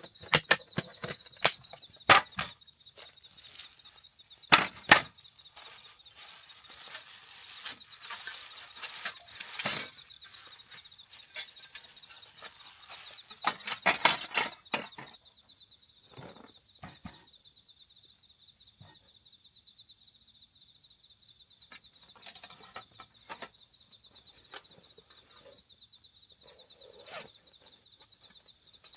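Crickets chirring steadily, with a series of sharp knocks and snaps, many in the first half and a cluster about halfway through, then fewer and fainter.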